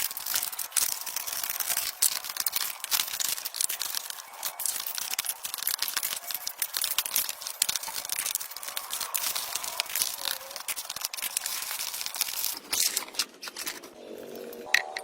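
Continuous scratchy scraping and rubbing on a surface, thick with small clicks. It stops about a second before the end.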